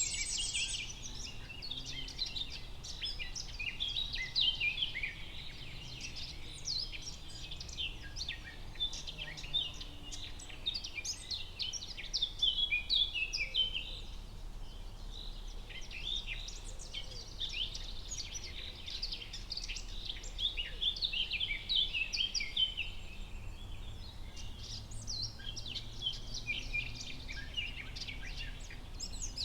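Forest ambience: many birds singing and chirping at once, a dense chorus of short calls and trills, over a faint low background rumble.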